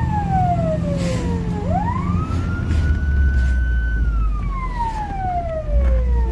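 Fire engine siren wailing: the tone slides slowly down from high to low over about two and a half seconds, sweeps quickly back up and holds, then slides down again near the end. The truck's engine drones low underneath.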